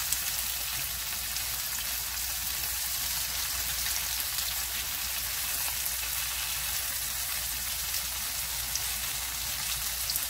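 Cubes of firm tofu sizzling steadily in hot oil in a frying pan, with small crackling pops throughout, as they are fried golden.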